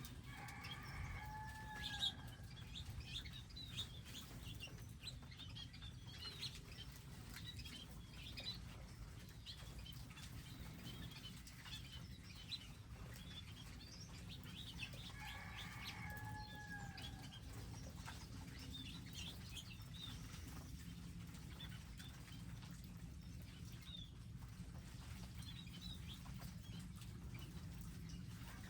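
Wild birds chirping at garden feeders: many short high chirps throughout, with a longer call of several stacked pitches that falls at its end, heard twice about fourteen seconds apart. A steady low rumble lies underneath.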